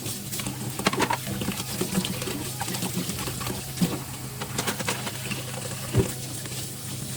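Kitchen utensils and dishes being handled: scattered light knocks and clicks, the clearest about a second in and again around four and six seconds in, over a steady low hum.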